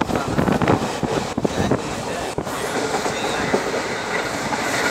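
Train running at speed, heard from on board: a steady rumble of wheels on the rails with irregular knocks from the rail joints, more frequent in the first half.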